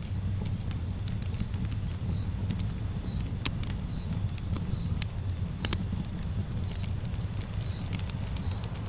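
Campfire burning, with a steady low rumble and scattered crackles and pops. From about two seconds in, a short high-pitched chirp repeats about every three-quarters of a second.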